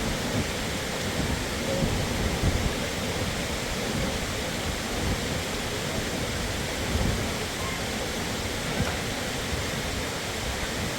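Waterfall: a steady, dense rush of falling water with a deep, fluctuating rumble underneath.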